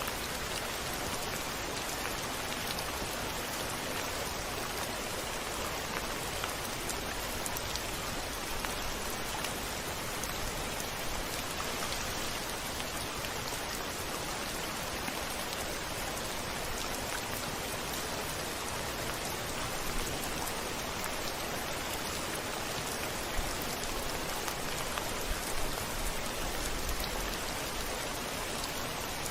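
Steady rain falling, an even hiss with scattered sharp drop ticks, and a faint low rumble near the end.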